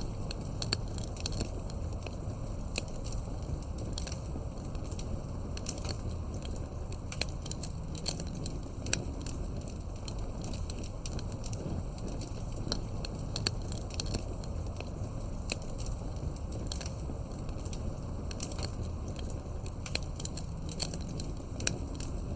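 Campfire burning: wood crackling with frequent sharp pops over a steady low rumble of the flames.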